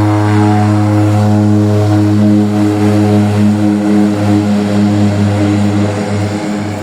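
Propeller airplane's engines running at high power, a loud steady drone made of a deep tone and its overtones.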